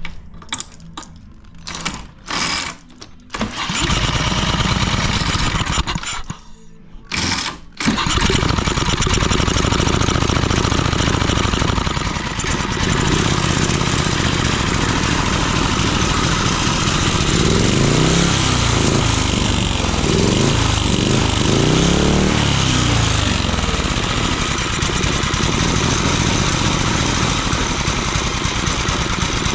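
Small rototiller engine on a go-kart being started: a few short sputters, then it catches about four seconds in, dies out around six seconds, and catches again about eight seconds in to run steadily. It is revved up and down a few times partway through.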